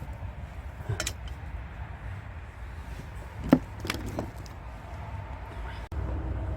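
Metal tools clinking on the engine a few times over a steady low rumble, the sharpest clink about three and a half seconds in; just before the end a steady hum sets in.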